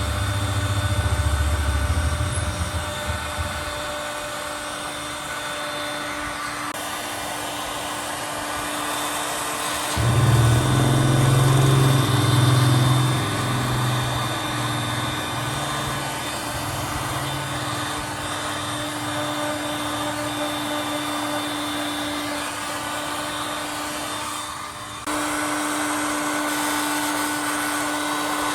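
Small electric blower motor running steadily with a constant whine, over a low rumble that is heavier at first and again from about ten to thirteen seconds in; the sound shifts abruptly near the end.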